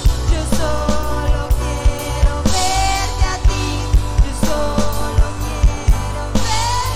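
Contemporary worship music from a band: a steady drum-kit beat over bass and sustained keyboard chords, with a held melodic line above.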